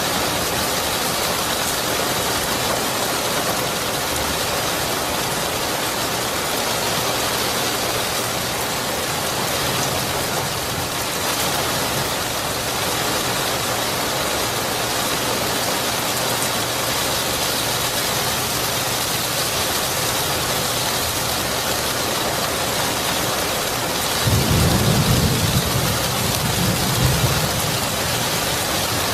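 Steady heavy rain hissing, with a low rumble of thunder rolling in about three-quarters of the way through and lasting a few seconds.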